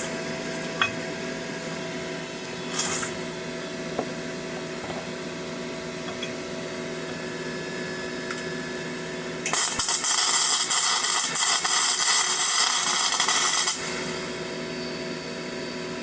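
Flux-core arc welding with a Parkside PMSG 200 A1 welder: over a steady hum, a short burst of arc about three seconds in, then the arc strikes about nine and a half seconds in and crackles loudly for about four seconds before stopping.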